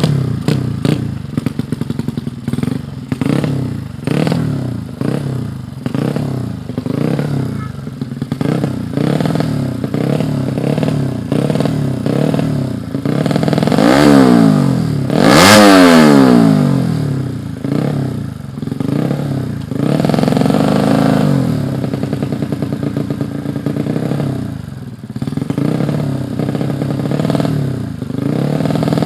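A 115cc drag-bike motorcycle engine revved in repeated quick throttle blips, roughly one a second. About halfway through comes one longer, higher rev.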